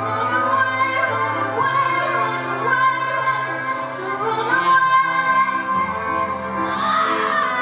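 Live pop band music with a woman singing long held notes over sustained bass notes.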